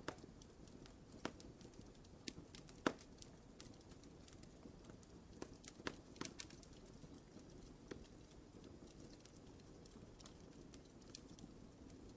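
Wood fire burning in a fireplace: soft crackling with scattered sharp pops, the loudest near 3 s and around 6 s in, over a low steady hiss of flame.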